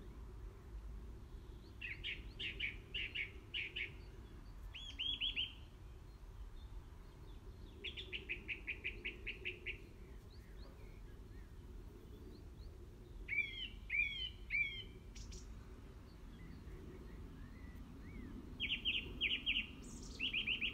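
A songbird singing in short bursts of rapid repeated chirps, about five bursts a few seconds apart, over a steady low background rumble.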